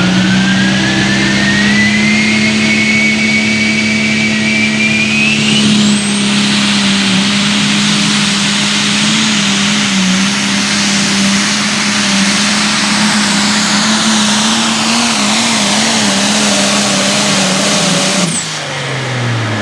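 Turbocharged diesel engine of a limited pro stock pulling tractor running at full throttle, its turbo whistle climbing in pitch over the first six seconds. Near the end the throttle is cut and the engine note drops away.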